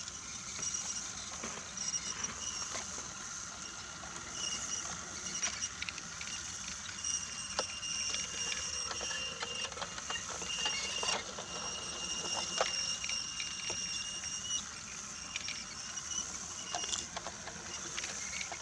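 Battery-powered Brio toy train running on wooden track: a high motor whine that comes and goes, with irregular clicks and clacks of the wheels over the track joints.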